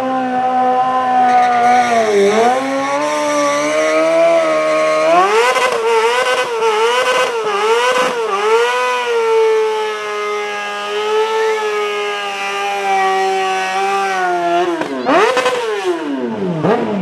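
A motorcycle engine held at high revs. It dips about two seconds in, gives a run of quick rev blips over the next few seconds, then holds a long steady high pitch. Near the end the revs drop sharply and climb again.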